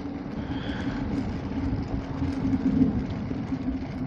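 Electric scooter riding over snow: a steady low hum over a rumbling road and wind noise.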